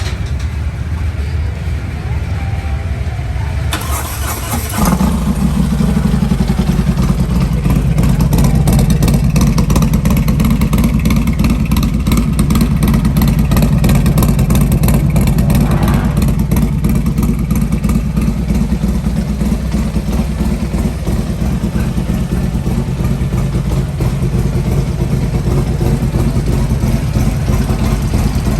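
A big-bore 143-cubic-inch Harley-Davidson Milwaukee-Eight V-twin is cranked about four seconds in and catches a second later. It then idles steadily and loudly.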